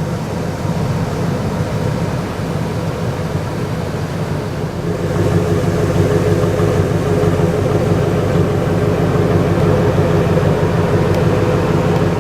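A 1999 Ford F150's 4.6-litre Triton V8 idling steadily; it gets louder about five seconds in.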